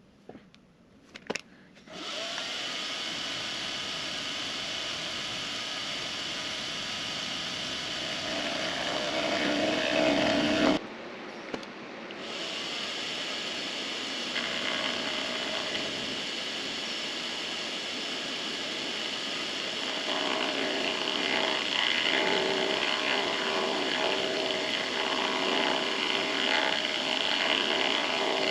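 Benchtop machine tool's electric motor switched on after a couple of clicks and running with a steady whine, cutting out briefly near the middle and starting again. From about two-thirds of the way through, a louder, rougher cutting sound joins in as the tool takes a cut across the aluminum.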